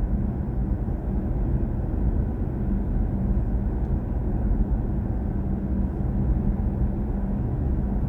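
Steady road and tyre rumble of a BMW i4 M50 electric car being driven, with a faint steady hum over it and no engine note.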